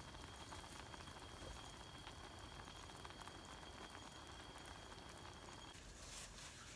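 Food boiling and sizzling in a cooking pot: a faint crackling hiss with a thin steady whine, which stops about a second before the end.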